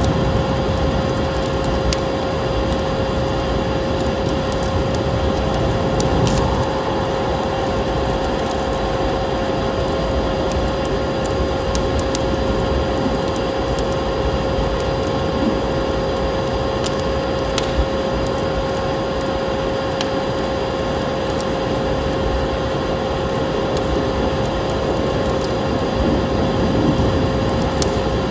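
Vacuum cleaner running steadily: a constant motor whine over a steady rushing noise. Scattered crackles and pops from a wood fire sound over it.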